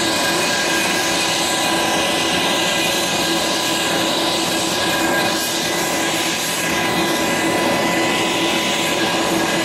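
Aircraft turbine engines running steadily: a loud, even rushing noise with several steady high whining tones and no change in pitch.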